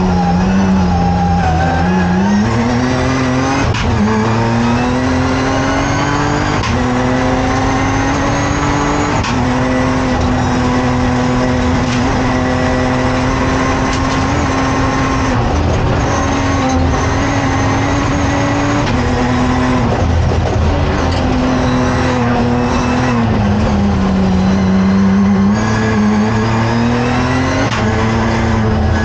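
BMW 1M race car's turbocharged straight-six engine heard from inside the cabin under hard driving: it revs up through the gears and drops back for corners, its pitch climbing steadily and stepping sharply at each gear change.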